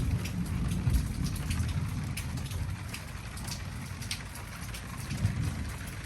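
Rain falling during a thunderstorm, with many individual drops ticking sharply close by, over a steady low rumble.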